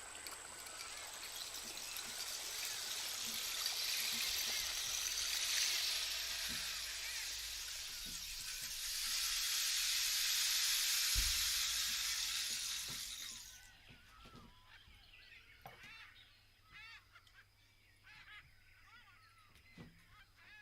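Rain-like rushing noise that swells twice and then cuts off suddenly about two-thirds of the way through. Short bird-like chirps and a faint steady high tone follow.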